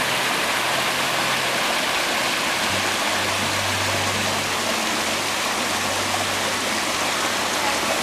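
Water of a rocky cascade rushing steadily in a loud, even hiss.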